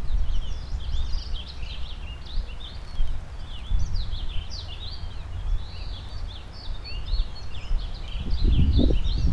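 Many songbirds singing at once, a continuous tangle of quick chirps and trills. Underneath runs a low rumble of wind buffeting the microphone, which rises in gusts near the end.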